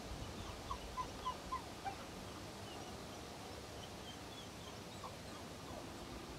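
Faint bird calls: a quick run of about five short, slightly falling notes, roughly three a second, then a few weaker ones near the end, over a light outdoor hiss.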